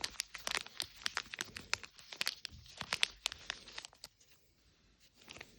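A small plastic wrapper being torn open and crinkled by hand, in a rapid run of sharp crackles that thins out after about four seconds.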